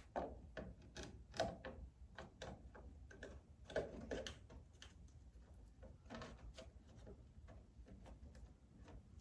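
Faint, irregular clicks and light knocks as an RC model airplane's cowl is slid on over the motor and fitted against the fuselage, a few slightly louder taps among them.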